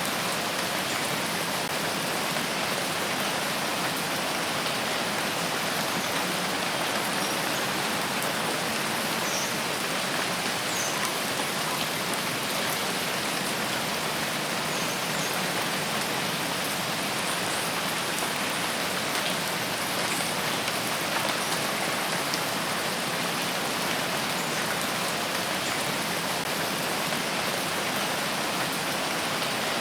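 Steady rain falling on foliage, an even hiss with scattered drop ticks, and a few faint high chirps now and then.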